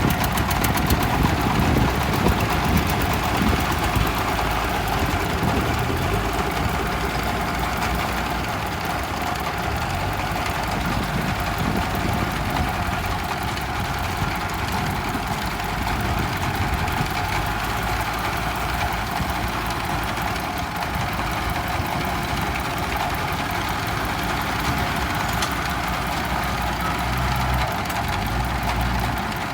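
M5018 tractor's diesel engine running steadily while pulling a plow through soil.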